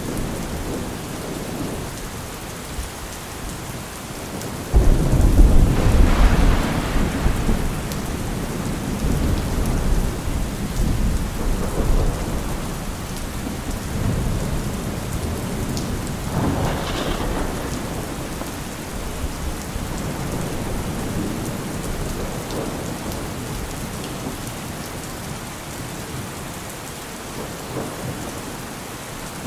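Heavy, steady rain with thunder: a sudden loud crack-and-rumble about five seconds in that rolls on for several seconds, then a second, weaker peal about halfway through.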